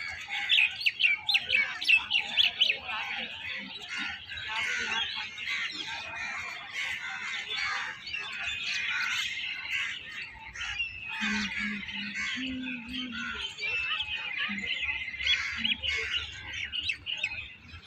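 Many birds chirping and calling at once, a dense chorus of overlapping high chirps and trills, with a fast run of loud, sharp chirps in the first few seconds.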